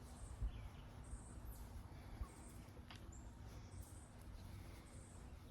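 Faint outdoor ambience: a few short, high bird chirps scattered over a steady low rumble.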